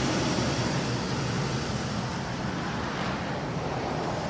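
2012 GMC Savana cutaway box truck's engine idling, a steady, even running noise heard close to the truck.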